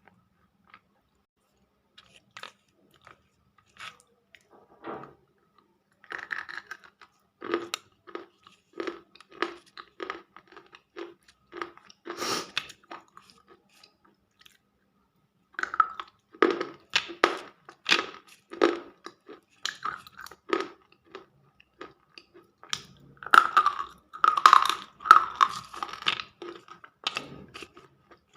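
Close-miked biting and chewing of a brittle, dry clay snack (slate pencil or multani mitti), each bite a sharp crunch. A few scattered crunches come first, then steady runs of rapid crunching with a short pause in the middle.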